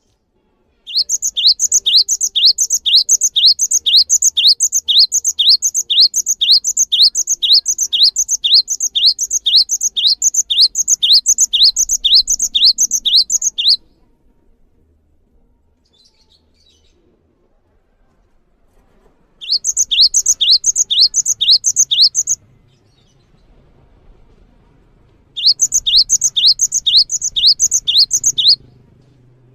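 Songbird song from a masteran training recording: one high, rising note repeated evenly about two to three times a second in a long series of about thirteen seconds, then two shorter runs of the same note a few seconds apart.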